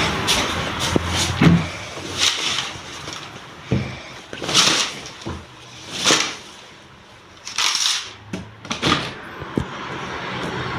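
Household handling noises: a string of short knocks and brief swishing sounds, as of cupboard doors and objects being moved about.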